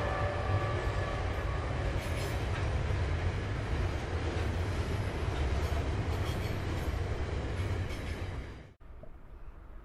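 SCT freight train wagons rolling past, a steady rumble and clatter of steel wheels on the rails. High steady tones die away in the first second. The sound cuts off abruptly near the end, leaving a quiet background.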